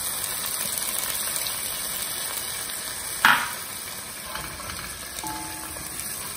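Diced green capsicum frying in hot butter and oil in a pot, a steady sizzle. A single short knock comes about three seconds in.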